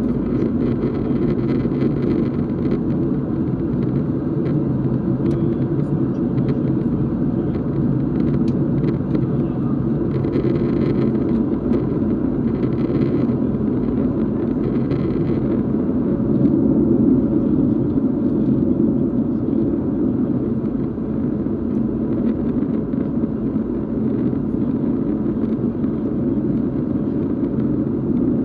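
Steady low drone inside a Boeing 737's cabin: engine and airflow noise holding even, with no change in power.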